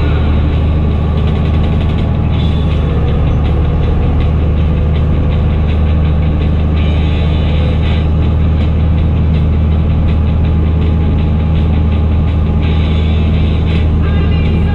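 Fendt Favorit 926 Vario tractor's six-cylinder diesel engine running steadily through an open exhaust pipe, a loud constant low drone with no change in speed.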